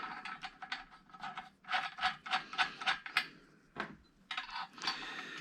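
Small metal nuts and hardware being handled: a run of light, quick clicks and rattles, thickest around the middle.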